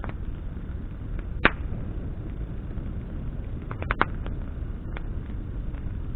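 Campfire of burning branches crackling over a steady low rush of flame, with scattered sharp pops: one loud snap about a second and a half in and a quick run of several pops about four seconds in.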